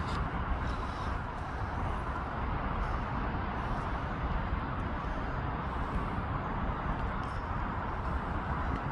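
Steady rumble and hiss of railway station platform noise, with no single event standing out, only a few faint clicks.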